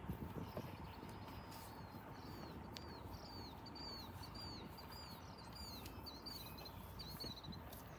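A small bird chirping in a steady series of short, high, arched notes, two or three a second, settling into a regular rhythm about three seconds in, over a low steady background rumble.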